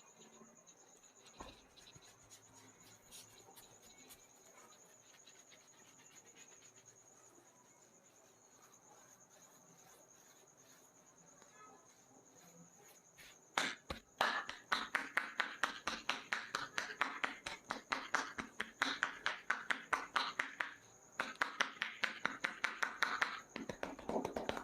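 Rapid rhythmic hand slaps of a percussive head massage, several strikes a second, starting about halfway through and pausing briefly near the end. Before the slaps begin, crickets chirr steadily in the background.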